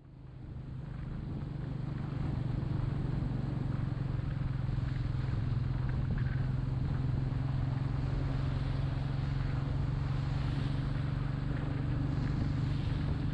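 Royal Enfield Meteor 350's single-cylinder engine running steadily under way, with wind noise, fading in over the first couple of seconds.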